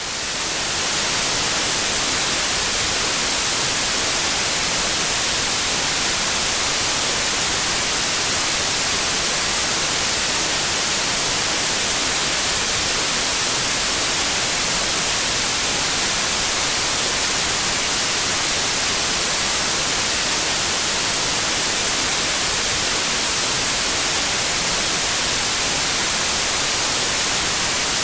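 Steady white noise, an even hiss weighted toward the high frequencies, with no change throughout.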